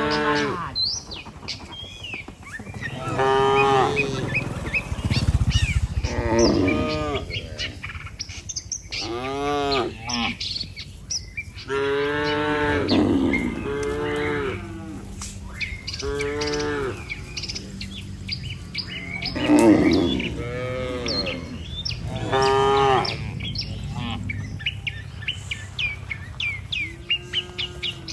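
Herd of cattle mooing: about ten drawn-out moos from different animals, one every two to three seconds, with small birds chirping in the background.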